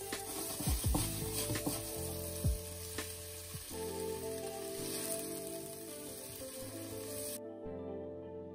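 Potato strips sizzling as they fry in a pan, stirred with a spatula that gives a few knocks and scrapes against the pan, over soft background music. The sizzling cuts off suddenly near the end.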